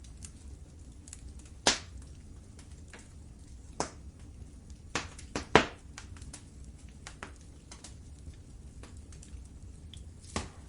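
Wood fire crackling in a fireplace: irregular sharp pops and snaps, a cluster of louder ones in the middle and one near the end, over a low steady rumble.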